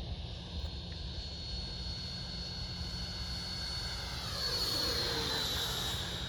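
Electric ducted fan of a radio-controlled L-39 Albatros model jet whining as it flies by. The whine grows louder and its pitch drops sharply as the jet passes, about four seconds in.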